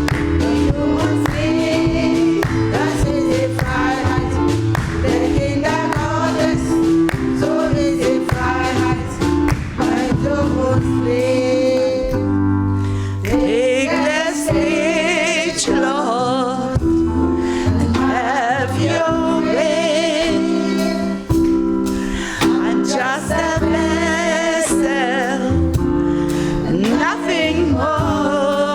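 A gospel choir singing live with band accompaniment: a bass line and sustained keyboard chords under the voices, over a steady drum beat.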